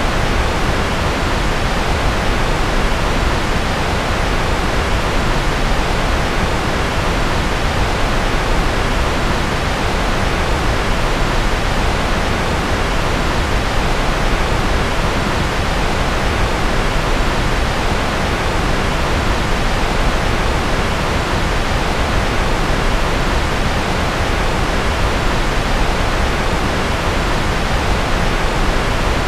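Steady synthetic noise from a white-noise track: a constant, unchanging hiss with more weight in the low end than in the highs.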